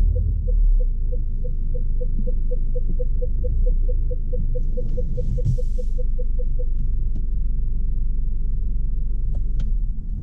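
Low rumble of the Jaguar XE P300's 2.0-litre turbocharged four-cylinder and the car moving slowly, heard from inside the cabin. Over it a parking-sensor beep repeats, quickening as the car closes on an obstacle, then stops about two-thirds of the way in. A brief hiss comes midway and a couple of clicks near the end.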